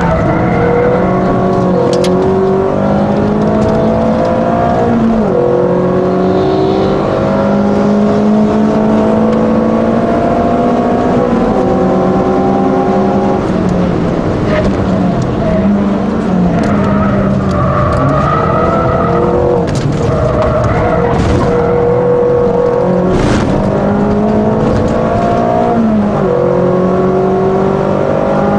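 Peugeot 206 RC's 2.0-litre four-cylinder engine heard from inside the cabin under hard track driving, its note climbing through the revs and dropping back several times at gear changes and braking.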